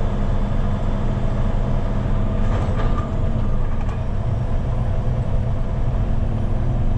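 Heavy truck's diesel engine running steadily at low road speed, with road noise, heard from inside the cab.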